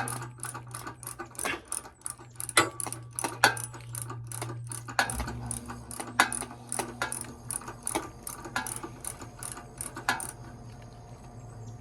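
Ratchet with a spark plug socket working the spark plug of a 208cc single-cylinder small engine: quick irregular clicking strokes, a few a second, that stop about ten seconds in, over a steady low hum.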